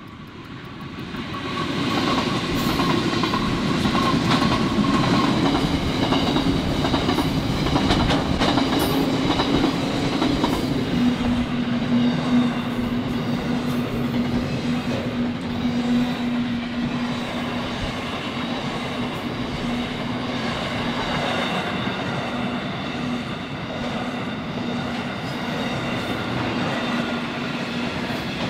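Freight train hauled by NR class diesel-electric locomotives passing close by. It grows loud over the first two seconds, then runs on as a steady rumble with the rapid clatter of wheels over the rails.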